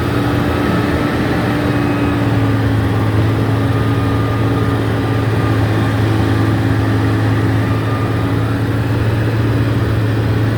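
Engine of a heavy earthmoving machine running steadily with a constant low hum.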